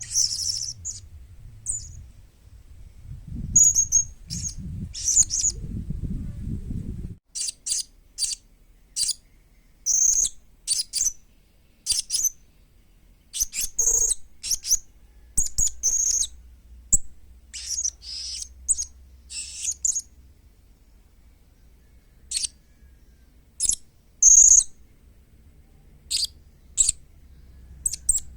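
Young blue-crowned hanging parrot (serindit) calling: short, high, sharp chirps given singly and in quick irregular runs. A low rumble runs underneath for the first several seconds, then stops abruptly.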